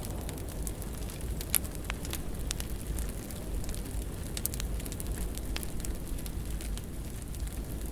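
Wood fire burning in a fireplace: a steady low rumble of flames with scattered crackles and pops, the sharpest pop about a second and a half in.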